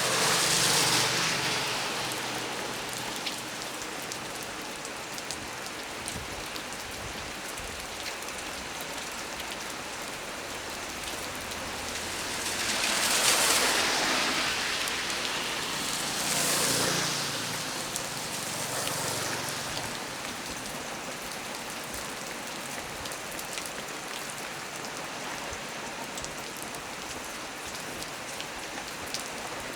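Heavy rain pouring steadily, swelling louder for a few seconds several times: about a second in, around halfway and again a few seconds later.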